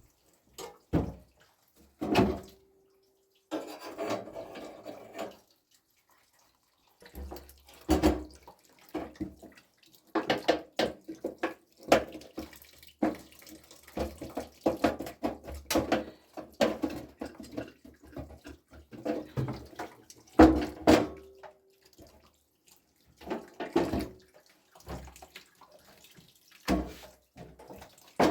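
Water splashing and sloshing as things are washed by hand in a basin, in stop-start bouts with sharp knocks and clinks of handled items.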